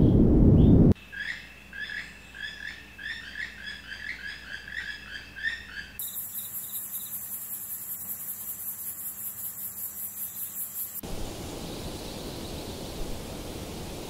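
A low rumble cuts off about a second in. A bird then chirps a fast series of short notes, about three a second. Around the middle this gives way to a very high, rapid pulsing trill, and near the end to a steady hiss.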